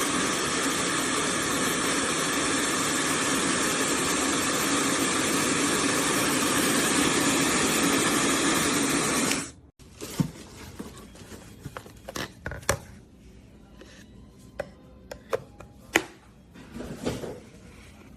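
Laifen SE high-speed hair dryer running steadily with an even rush of air, switched off about halfway through. After that come a few light clicks and handling knocks.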